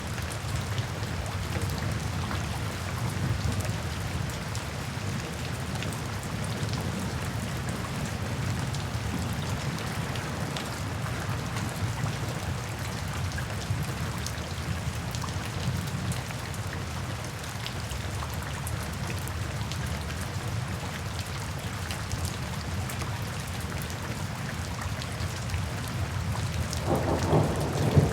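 Steady heavy rain falling, with a continuous low rumble of distant thunder; near the end a louder, closer thunderclap starts to break.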